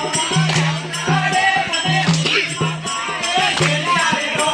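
Unamplified live folk singing for a garba dance, with rattling hand percussion keeping a steady beat.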